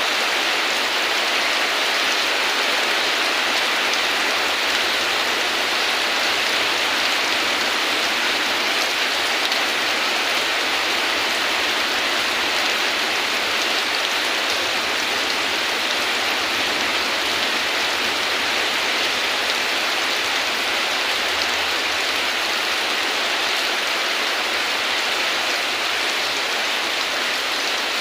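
Steady heavy rain falling, an even hiss with no breaks or thunder.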